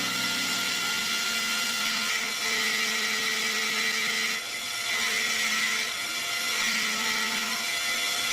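CNC lathe running steadily through a turning cut, a continuous machining whir with a high tone.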